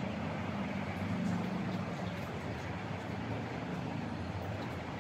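Heavy rain falling steadily, an even hiss with a low rumble underneath and a few faint drop ticks.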